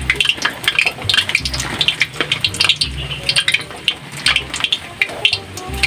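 Hot cooking oil in a wok crackling and sizzling as pieces of tempura deep-fry, with dense, irregular pops.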